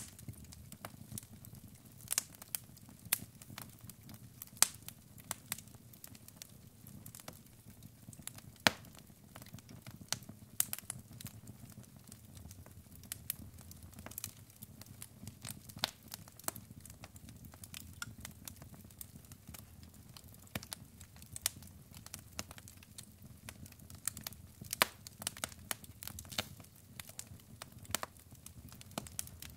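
Logs burning in a fireplace, crackling with irregular sharp pops and snaps over a steady low background of the fire.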